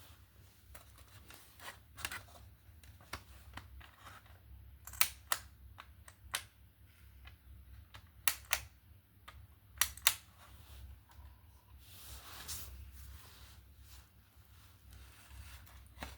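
Scattered sharp clicks and taps of small hard parts being handled, several in close pairs, over a low steady hum, with a short rustle near the end.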